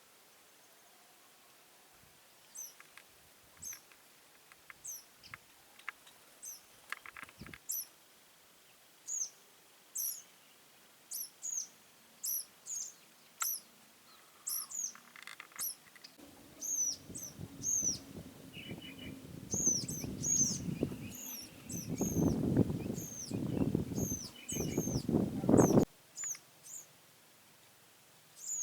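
Small birds chirping over and over with short, high, down-slurred notes. About halfway through, a louder rushing noise comes in and stops abruptly a few seconds before the end.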